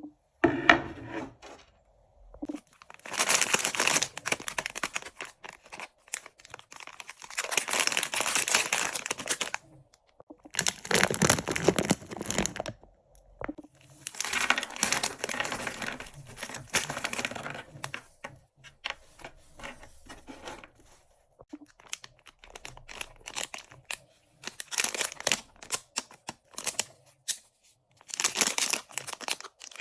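Candy and snack wrappers being torn open and crinkled in repeated bursts of a second to a few seconds, with short pauses between them. In the second half the crinkling gives way to a run of short, sharp clicks and taps, then one more burst of crinkling near the end.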